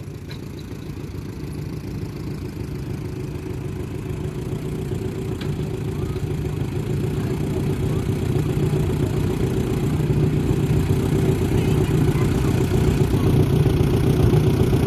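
Allis-Chalmers C tractor's small four-cylinder engine pulling the weight sled. It runs steadily and grows gradually louder.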